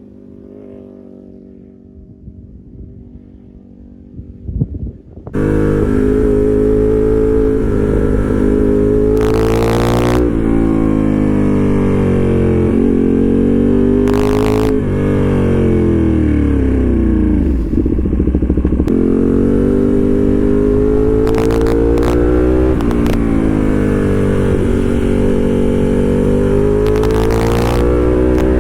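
Ducati Panigale V2's twin-cylinder engine through a full titanium exhaust. It is faint at first, then about five seconds in it turns suddenly loud and close, its pitch climbing and dropping back again and again as the bike accelerates and slows.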